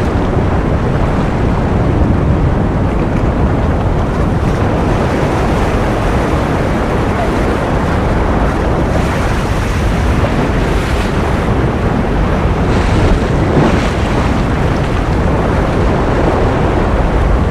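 Ocean surf: a steady, dense rush of waves and wind that swells a little now and then.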